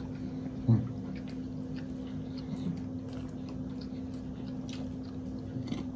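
Two people chewing big mouthfuls of a thick-cut bologna, egg and cheese sandwich on toasted bread close to the microphone: wet mouth sounds and small clicks, with one louder bump just under a second in. A steady low hum runs underneath.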